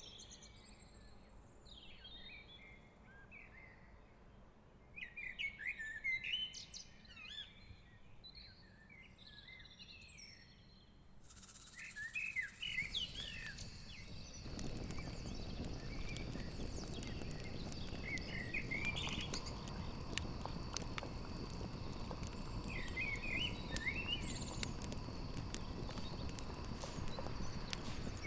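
Small birds chirping on and off. About halfway through, a campfire's crackling and popping fades in, together with a steady high trilling of crickets.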